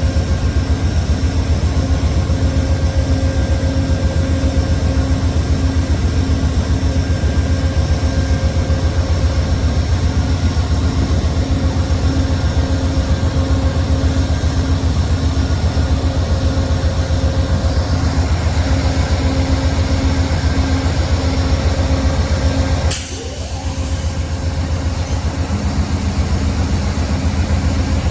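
Diesel train running steadily with a loud low rumble and a fast pulsing beat. A sharp click comes about three-quarters of the way through, followed by a brief dip in level before the rumble resumes.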